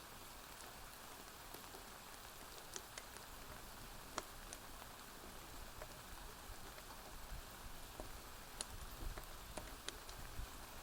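Steady rain hissing on a porch roof, with scattered sharp pops and crackles from a wood fire, about one or two every second.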